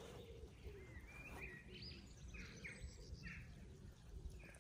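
Faint outdoor ambience: birds calling in a handful of short, falling chirps over a low rumble.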